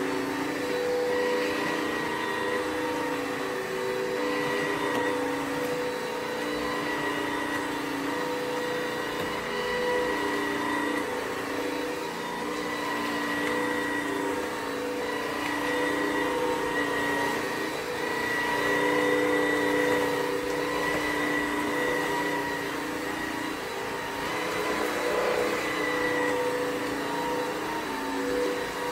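ILIFE W90 cordless wet-dry vacuum cleaner running: a steady motor hum and whine over the rush of air, the pitch wavering slightly.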